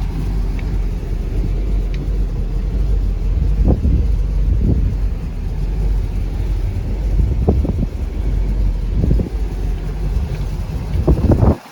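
1978 Chevrolet C30 dump truck's engine running steadily with a low rumble, which cuts off suddenly near the end.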